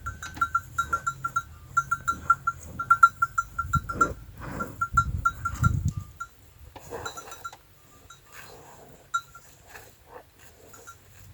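Small livestock bells, such as those worn by goats or sheep, ringing over and over at one pitch, several strikes a second, then thinning to a few scattered rings after about six seconds.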